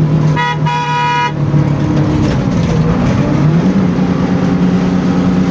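Bus engine running with road noise while a vehicle horn honks twice near the start, a short toot then a longer blast of about half a second. The engine's pitch rises a little about three and a half seconds in.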